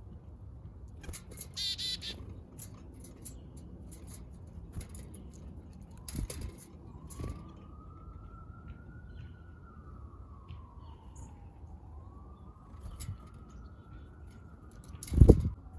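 A distant emergency siren wails in from about six seconds in, slowly rising and falling, over backyard ambience with small bird chirps and light taps. A short chirp comes early, and a loud thump sounds near the end.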